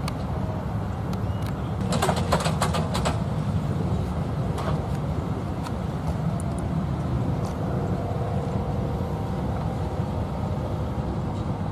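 Freight train of open-top cars rolling slowly past, a steady low rumble. A quick run of sharp clicks and clanks comes about two seconds in.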